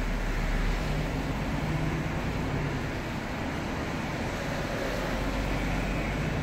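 Truck engine and road noise heard from inside the cab, a steady drone with a low engine hum while the truck moves slowly.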